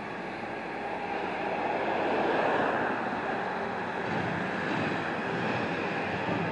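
Construction machinery running with a steady rumble that swells slightly about two seconds in.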